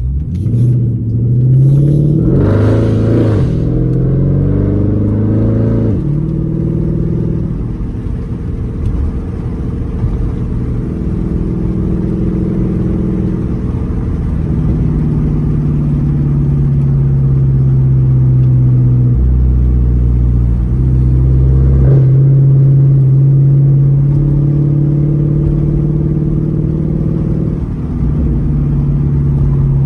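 The 6.4-litre (392) HEMI V8 of a 2012 Dodge Charger SRT8, running through a straight-pipe exhaust while driving. It revs up over the first few seconds, then holds a deep drone whose pitch steps up and down as the speed changes, with a couple of faint sharp cracks later on.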